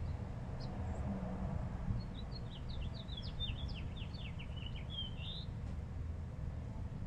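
A small bird singing: a few short high chirps, then a quick twittering run of notes, each falling in pitch, that lasts about three seconds, over a steady low rumble.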